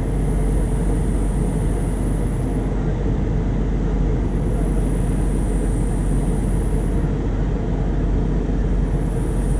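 Steady rumble of an airliner cabin in flight: engine and airflow noise, heaviest in the low end, with no change in level.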